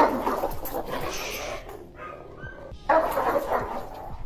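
A dog barking and snarling aggressively in two loud outbursts, the second starting about three seconds in.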